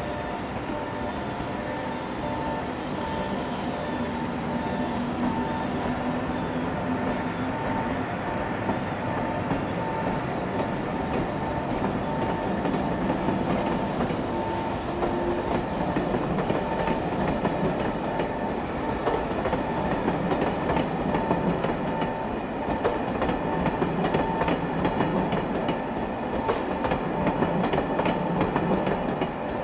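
A train running along the track, its wheels clicking over the rail joints, with steady whining tones over the rumble. The noise builds gradually and gets busier with clicks in the second half.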